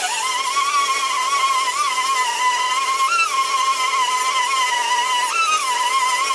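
Steady high-pitched whine of a handheld electric power tool running, its pitch wavering and briefly rising twice as the load on it changes.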